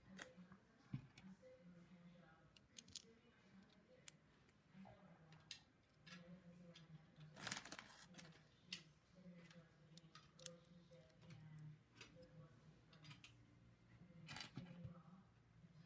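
Plastic LEGO pieces clicking and rattling as they are handled and pressed together, in scattered light clicks, with a louder rustle of clicks about halfway through.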